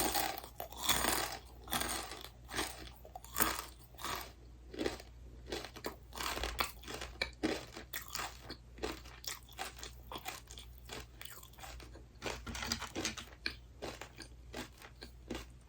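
Close-miked chewing of crunchy food: a person biting and chewing with many sharp, irregular crunches.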